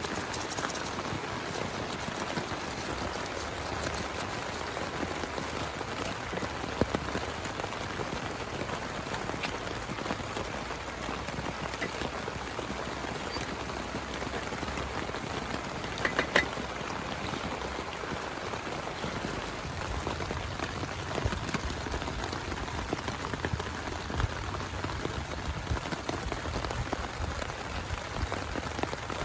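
Heavy rain falling steadily, with a few sharper drop hits standing out about a third and about halfway through.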